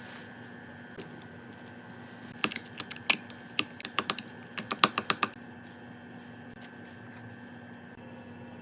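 A quick run of about a dozen light, sharp clicks or taps over about three seconds, like tapping on keys or a hard plastic surface, over a faint steady hum.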